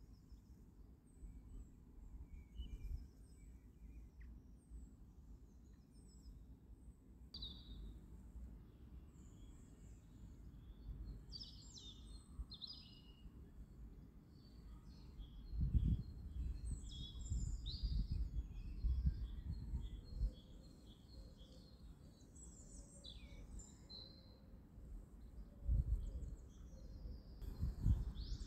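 Faint birdsong: many short chirps and calls scattered throughout, over a low rumble with a few dull bumps around the middle and near the end.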